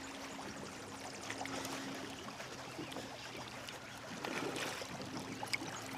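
Water splashing and trickling at the side of a kayak, with scattered small clicks, as a hooked smallmouth bass is reeled in.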